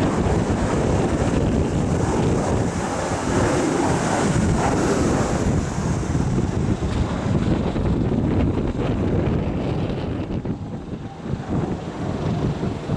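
Strong gusty wind buffeting the microphone, a loud uneven rumble that dips briefly near the end.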